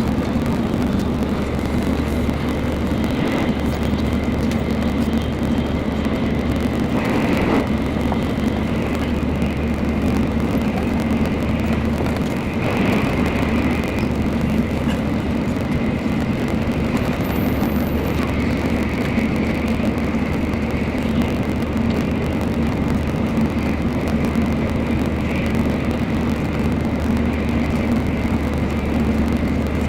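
Steady running noise of a Shinkansen Nozomi at speed, heard from inside the passenger car: a continuous low hum and rush with a faint high steady tone. A few brief knocks come about 3, 7 and 12 seconds in.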